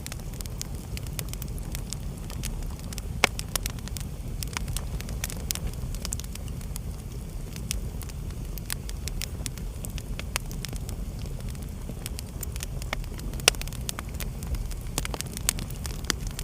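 Wood fire burning in a fireplace: a steady low rumble of flames with frequent irregular crackles and snaps, and two louder pops, about three seconds in and near thirteen and a half seconds.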